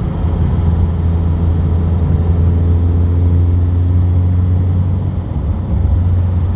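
Car engine running and road noise heard from inside the cabin while driving, a steady low drone with a brief dip in loudness about five seconds in.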